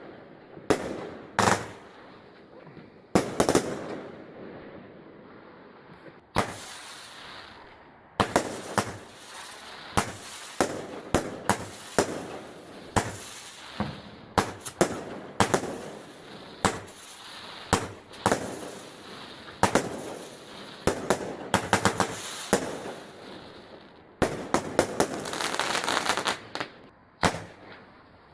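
Fireworks going off: sharp bangs and crackling reports, a few spread apart at first, then coming thick and fast from about eight seconds in, with a stretch of hissing between the bangs near the end.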